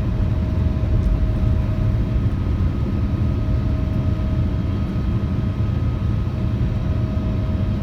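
Steady low rumble of a Boeing 787-9's jet engines and airflow heard inside the cabin, with a faint steady hum on top.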